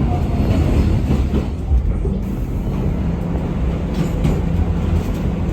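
R211 subway car running between stations, heard from inside the car: a steady low rumble of wheels on rail with a constant motor hum, and a short clatter about four seconds in.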